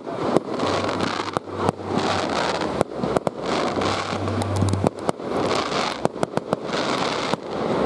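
Fireworks display: many sharp bangs in quick succession, several a second at times, over a continuous crackle of bursting shells.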